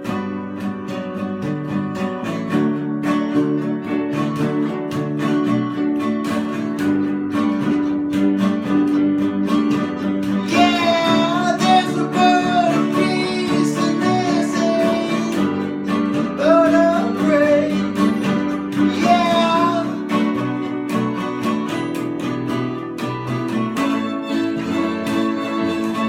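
Acoustic guitar playing a steady picked and strummed accompaniment, with a wavering higher melody line joining for about ten seconds in the middle.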